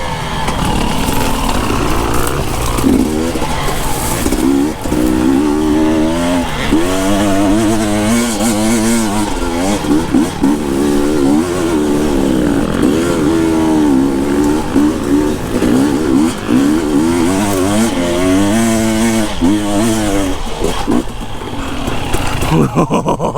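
Husqvarna TE 250i two-stroke enduro dirt bike engine being ridden on trail, its revs constantly rising and falling as the throttle is worked on and off.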